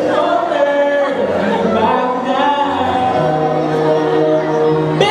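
A group of voices singing together over music, holding notes above a steady low tone.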